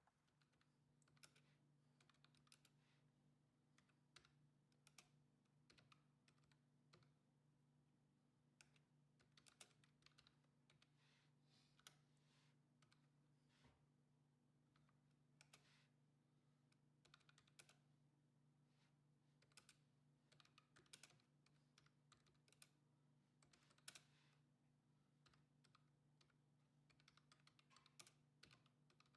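Near silence: faint, irregular clicks over a low steady hum.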